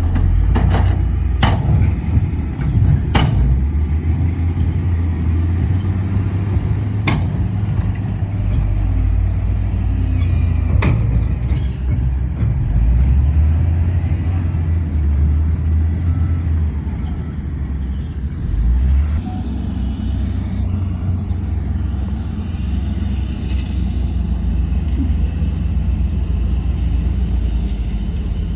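Heavy diesel earthmoving machinery running with a steady low rumble. Several sharp knocks come in the first dozen seconds.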